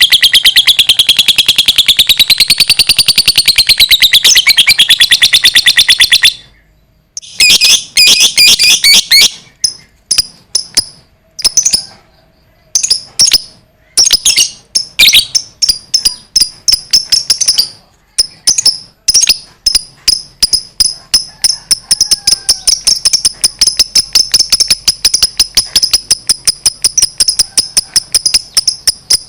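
Lovebird giving its long chattering 'ngekek' trill: a fast, unbroken run of sharp, shrill notes wavering in pitch for about six seconds. After a short break it comes in stop-start bursts, then settles into a steady series of sharp chirps, several a second.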